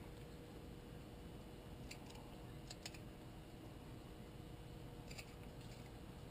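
A few faint, sharp clicks and ticks from carving tools or hands cleaning up the broken surfaces of a basswood carving, over a quiet background.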